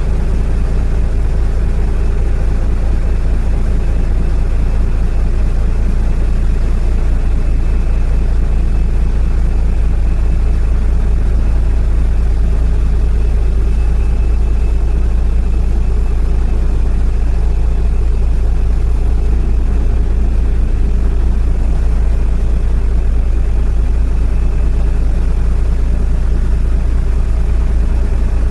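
Boat's diesel engine running steadily at low speed, a constant deep drone, as the vessel moves slowly out of a river lock.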